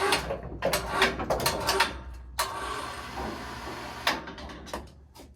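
Clicks and clattering of hard objects being handled, with a sliding scrape lasting about a second and a half midway through, then a few more knocks.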